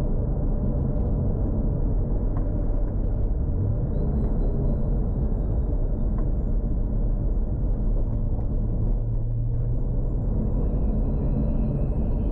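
Toyota Supra MK4's tuned 2JZ engine running at low, steady revs under light load while driving, a deep rumble that steps up slightly in pitch about three seconds in, with a faint high whine rising and falling over it.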